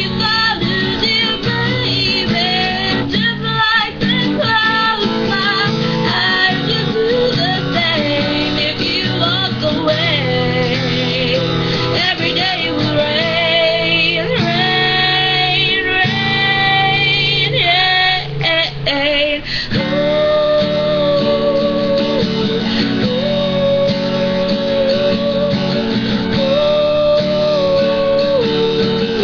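A woman singing a slow pop ballad with vibrato over guitar accompaniment, holding long notes near the end.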